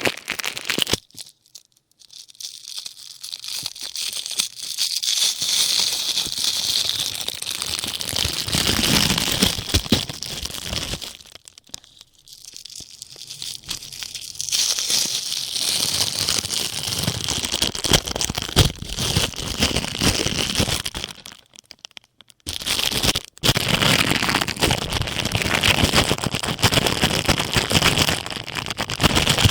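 Ear pick scratching and rubbing on a plastic hair-dye ear cap, a dense crackly scraping that runs in long stretches. It breaks off briefly about two seconds in, around twelve seconds, and again around twenty-two seconds.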